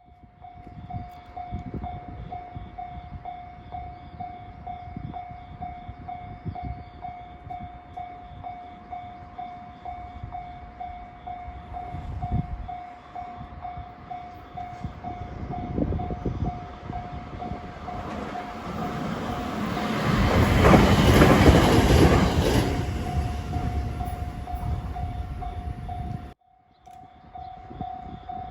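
Japanese level-crossing alarm ringing in a steady repeating ding while a JR 521-series electric train approaches and passes over the crossing. The train's noise builds to its loudest about twenty seconds in and then fades. Near the end the sound cuts out for a moment and the crossing alarm starts again.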